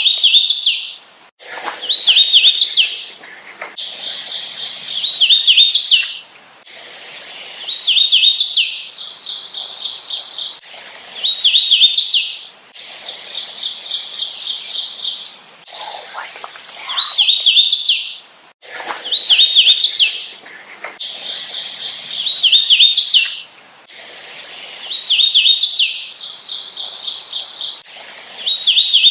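Hooded warbler singing its slurred, whistled song over and over, one phrase about every three seconds, each ending on a sharply rising note. Between some phrases there is a rapid trill of short, even notes.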